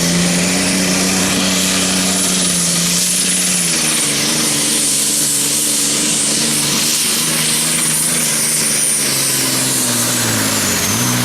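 Limited Superstock pulling tractor's turbocharged diesel engine running flat out under load during a pull, with a thin high turbo whistle over it. The engine note steps down about four seconds in and falls away near the end as the pull finishes.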